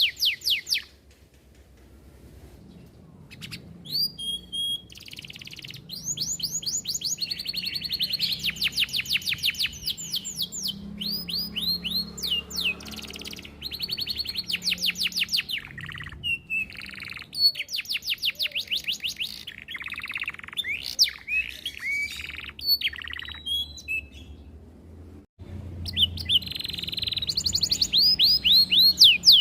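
Domestic canary singing: long phrases of rapid, repeated falling notes run together into trills, broken by short pauses.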